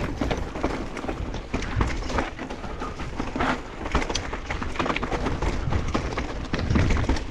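Mountain bike riding down a rough trail: tyres rolling on dirt and the bike rattling with many small knocks, over a steady low rumble.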